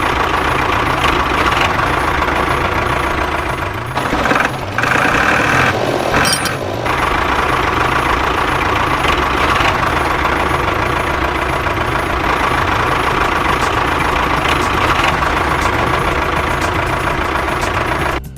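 Truck engine running steadily: a loud, continuous rumble with a low, even pulse, which shifts briefly between about four and seven seconds in.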